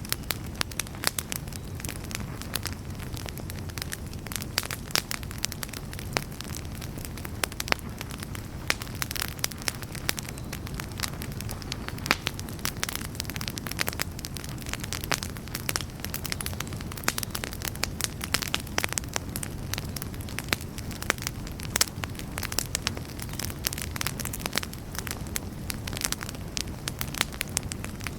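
Campfire burning with a steady low rumble and frequent sharp crackles and pops scattered throughout.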